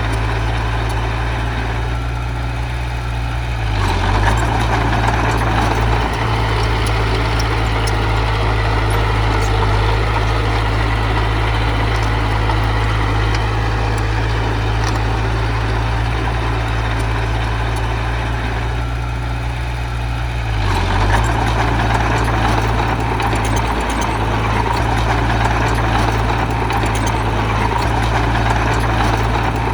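Heavy construction-machine diesel engine running steadily. About 4 seconds in, and again about 21 seconds in, the note dips briefly and then comes back fuller and louder, as under working load.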